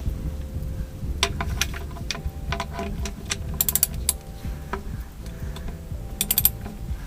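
Ratchet wrench clicking in short quick runs, with scattered metallic clicks and knocks from tools on the engine's drain or filter fittings.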